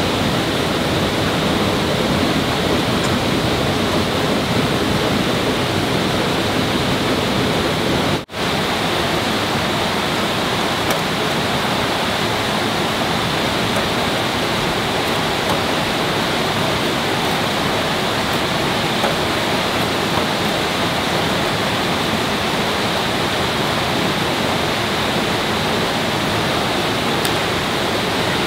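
Steady rush of flowing water, a loud even roar like a stream or small waterfall, broken by a momentary dropout about 8 seconds in.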